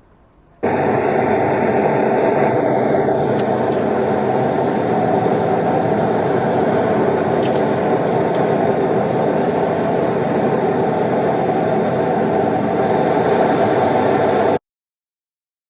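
Steady, loud rushing of a gas torch flame melting bronze for sand casting. It cuts in sharply and cuts off just as abruptly near the end.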